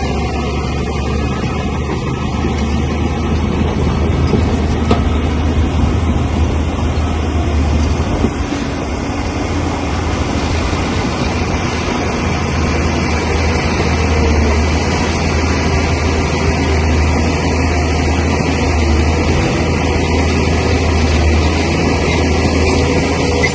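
Bulldozer's diesel engine running steadily under work, a deep continuous hum with dense mechanical noise over it.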